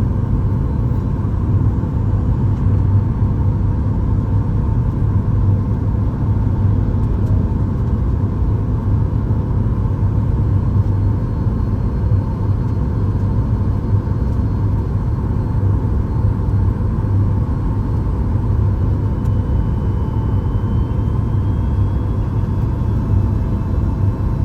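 Steady low rumble of cabin noise inside a Boeing 737 MAX 8 airliner, the engines and airflow heard from a forward window seat.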